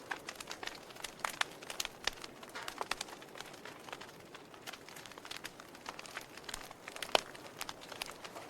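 Wood fire crackling in a fireplace: irregular pops and snaps over a soft hiss, with one sharp, louder pop about seven seconds in.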